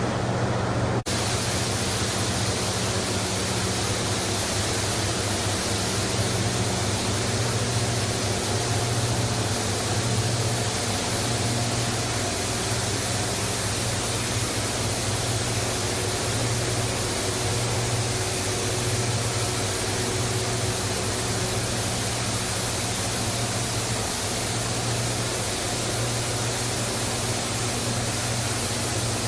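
PE/PP plastic washing machinery running: a steady, loud wash of noise over a constant low hum. The sound changes abruptly about a second in.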